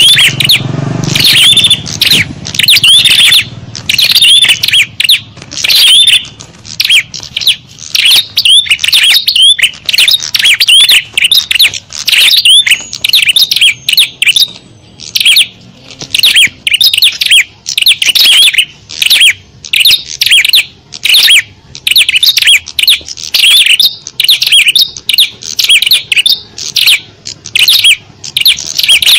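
Small songbirds calling in a loud, dense, unbroken chatter of rapid chirps: a bird-lure recording played to draw small wild birds in.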